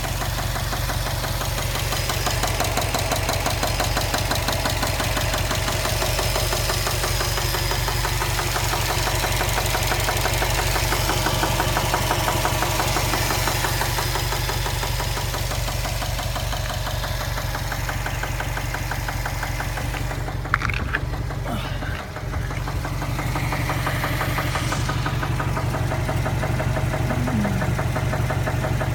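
Turbocharged 2.5-litre flat-four of a 2015 Subaru WRX STI running steadily with a fast, even knock from inside the engine, a knock that came on suddenly during a short drive with no warning lights. A brief click sounds about twenty seconds in.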